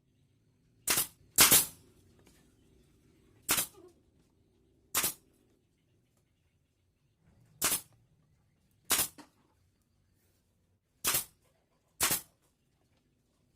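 A series of eight sharp cracks, spaced one to two seconds apart and unevenly timed, from hand work on a wooden bird cage.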